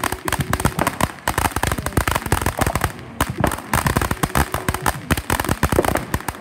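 Fireworks crackling: a dense, rapid run of sharp pops and cracks, many each second. The run eases briefly about a second in and again about three seconds in.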